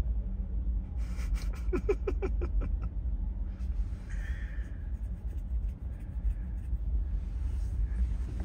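Car engine running, heard from inside the cabin as a steady low rumble. A run of short clicks and brief pitched sounds comes over it between about one and three seconds in, and a short hiss follows about a second later.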